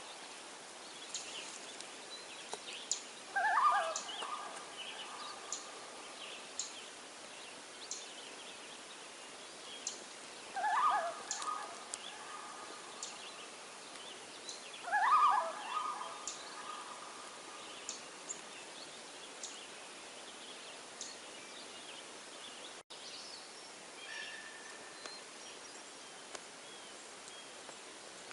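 A bird gives a short, quavering call three times: about three seconds in, about eleven seconds in and about fifteen seconds in. Light, scattered high ticks run under the calls.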